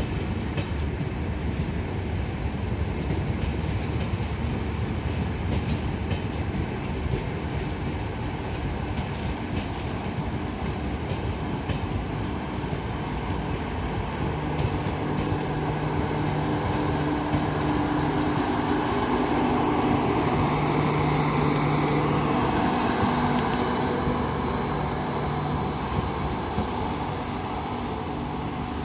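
Humsafar Express passenger train running past, its wheels clicking over the rail joints. A steady hum builds in the middle and is loudest about two-thirds of the way through.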